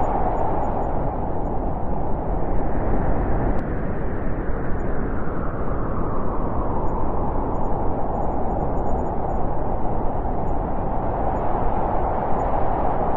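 Steady rushing wind that eases a little in the middle and swells again near the end.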